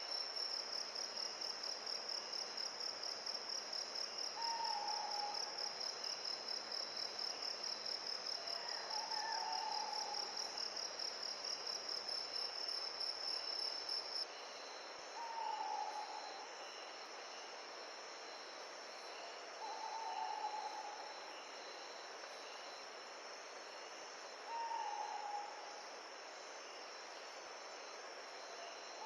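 A cricket-like insect trilling in a fast, even pulse that stops about halfway through, over a steady hiss of gentle wind. A short, low, slightly falling call repeats about every five seconds.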